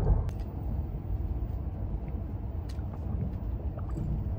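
Steady low rumble of a Tohoku Shinkansen bullet train running, heard from inside the passenger cabin, with a couple of faint clicks.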